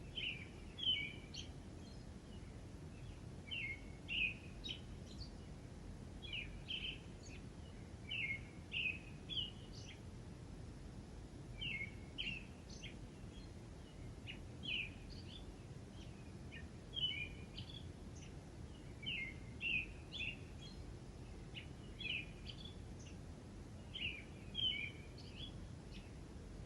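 Small songbirds chirping in short, quick phrases that recur every second or two, over a steady low background rumble.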